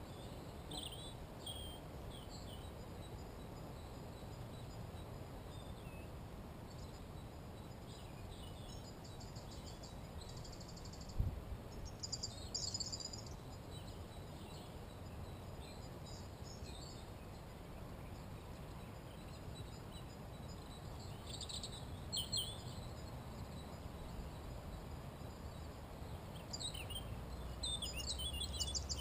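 Songbirds calling and singing here and there at the edge of a forest, with short high calls and a few fast trills, over a steady low rumble of background noise. One brief knock about eleven seconds in.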